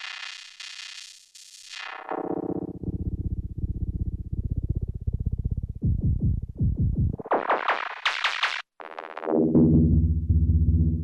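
Erica Synths Perkons HD-01 drum synthesizer playing an electronic pattern. A bright swept sound falls away in the first two seconds, a fast roll of hits fills the middle, a bright burst cuts off suddenly about nine seconds in, and then a heavy low beat comes back in.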